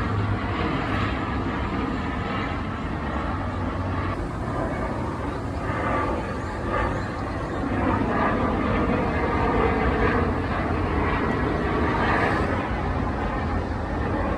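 Airliner flying over on its landing approach, the steady rush of its jet engines.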